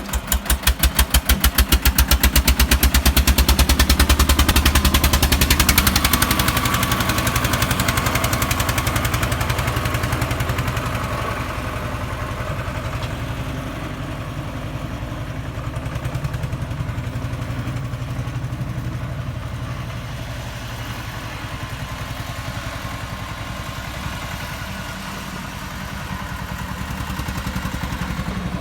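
Eicher 241 tractor's single-cylinder diesel engine running under load, a rapid even beat of firing strokes. It is loud for the first several seconds, then drops to a quieter steady run from about ten seconds in.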